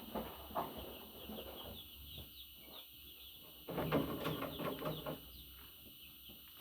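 Budgerigars chirping and chattering: quick high chirps throughout, with a louder burst of scratchy warbling chatter about halfway through.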